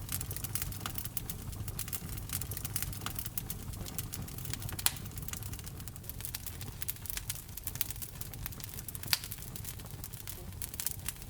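Fire burning in a fireplace and crackling: many small irregular pops over a steady low rumble. Two sharper pops stand out, about five seconds in and again near nine seconds.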